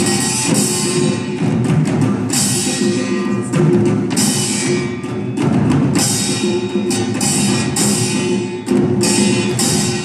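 A drum ensemble playing a loud, driving rhythm, with dense repeated strikes throughout.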